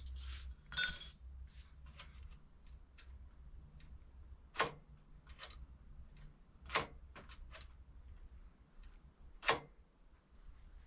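Metal parts and tools handled at a workbench: a sharp metallic clink with a brief ring about a second in, then a few separate sharp clicks and knocks spaced a second or two apart.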